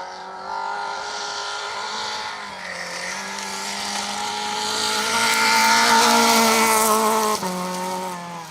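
Rally car engine running hard at high revs, growing louder as it approaches, then its pitch and level drop suddenly about seven and a half seconds in.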